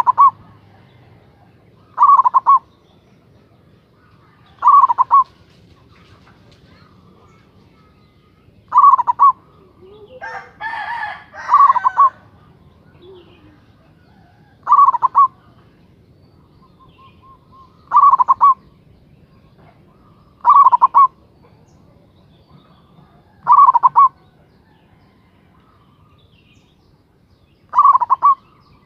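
Zebra dove (perkutut) singing: short, loud cooing phrases repeated every two to four seconds, about ten in all. About ten seconds in, a harsher, noisier bird call sounds once between two phrases.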